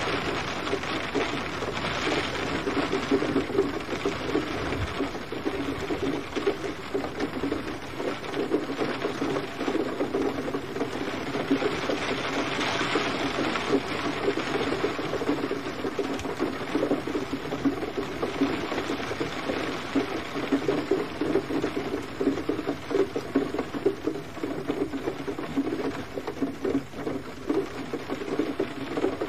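Gentle rain falling steadily: a dense, even patter of raindrops.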